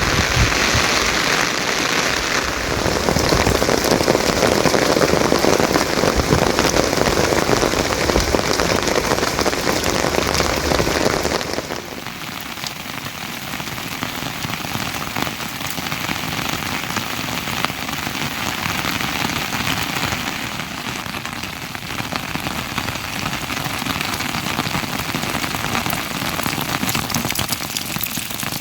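Steady rain falling, a dense hiss of drops on surfaces. About halfway through it changes abruptly to a quieter, thinner patter.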